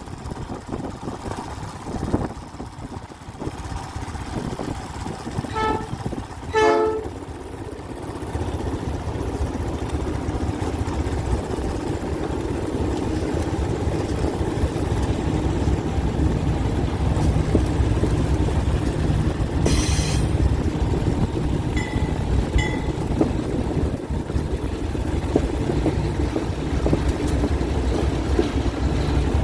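Diesel-electric locomotive horn giving two short blasts, the second louder, about six seconds in. Then the low engine rumble of the approaching train grows steadily louder.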